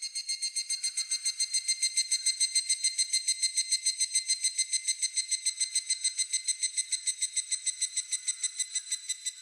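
Higurashi (evening cicada) calling: one long run of rapid, evenly spaced, whistle-like pulses, the 'kana-kana' call, swelling over the first second and cutting off near the end.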